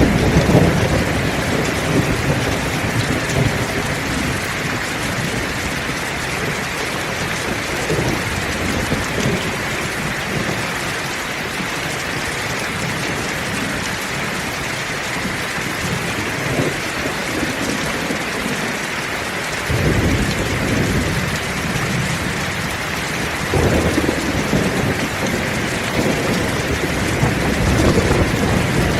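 Heavy rain falling steadily, with thunder rumbling low at the start, again about two-thirds through, and swelling near the end.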